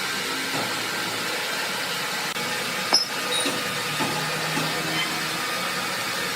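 Sawmill machinery running with a steady hiss, with no cut under way. There is one sharp click about three seconds in.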